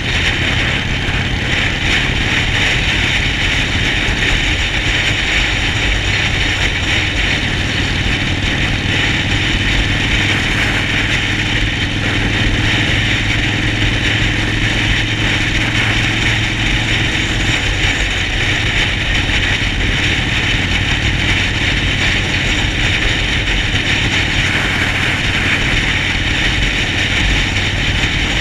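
Harley-Davidson Sportster Forty-Eight's air-cooled V-twin running under way at a steady, held speed, with no revving or gear changes. A steady hiss sits over the low, fast-pulsing engine note.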